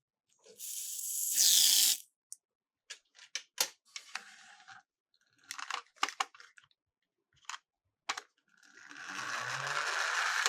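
Miniature toy cars rolling down a plastic slope, twice, with scattered clicks and knocks of the small cars hitting the track between runs.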